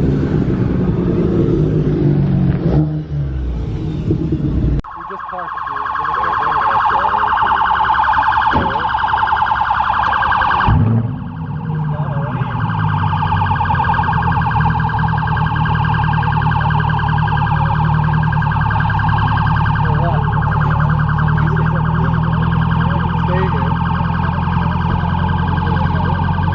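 Car engines rumbling, then about five seconds in an electronic siren cuts in abruptly and keeps going: a steady, rapidly warbling tone over the low drone of idling engines.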